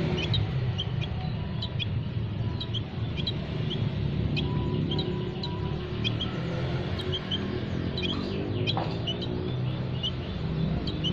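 Small aviary birds chirping: many short, high chirps, several a second, over a steady low rumble.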